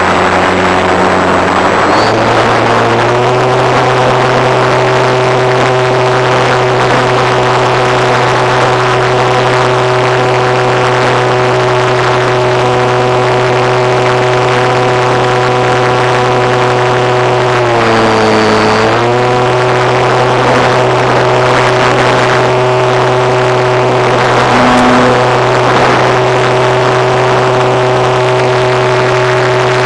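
A radio-controlled model airplane's engine running steadily at high throttle. Its pitch rises a couple of seconds in, then dips briefly and comes back up about two-thirds of the way through, as the throttle is eased and reopened.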